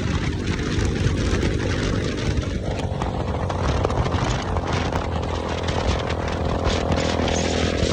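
Motorcycle engine running. Its note grows fuller about three seconds in and eases back near the end.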